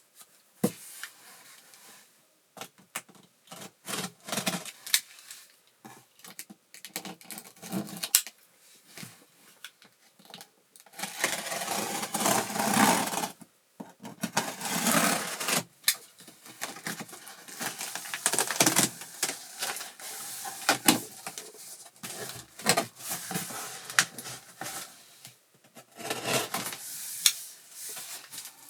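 Cardboard shipping box and packing material being handled and opened: scattered clicks and knocks, with several longer bursts of rustling and tearing.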